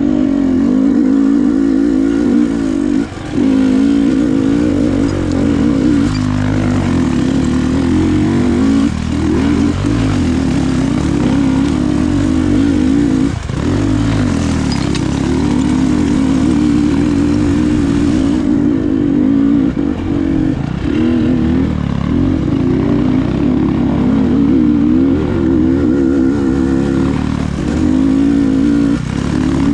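Enduro motorcycle engine running under load while riding off-road, its pitch rising and falling constantly with the throttle, with a few brief dips where the throttle is rolled off.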